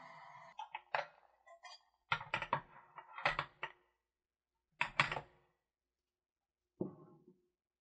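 Kitchen handling sounds: a series of light clicks and knocks in small clusters, as utensils and containers are set down and moved, with pauses between them. A steady noise stops about half a second in.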